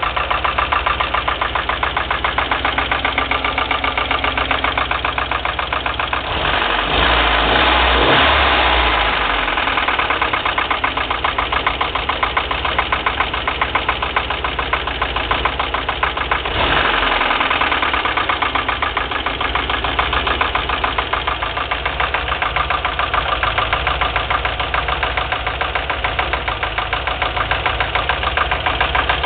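A UMZ-4215 four-cylinder petrol engine idling with a steady, rhythmic knock. It is blipped twice, about seven and about seventeen seconds in. The knock stays when the spark-plug leads are pulled one at a time, and the owner suspects either the camshaft and lifters or a piston and wrist pin.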